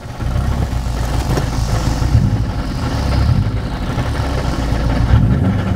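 Subaru Impreza's turbocharged flat-four engine running with the car in first gear, a low uneven rumble. The transmission is blown.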